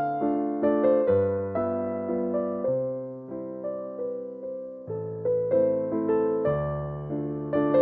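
Slow, gentle piano music: single notes struck one after another, each fading away, over low bass notes that change every second or two.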